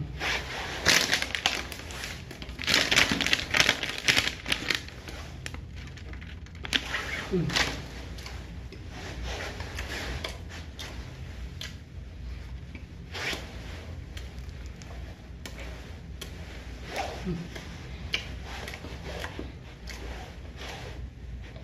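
Close-up eating sounds of a long soft jam-filled stick bread: bites tearing into the bread, then chewing and mouth smacking in irregular bursts, busiest in the first few seconds, with a couple of brief hummed voice sounds.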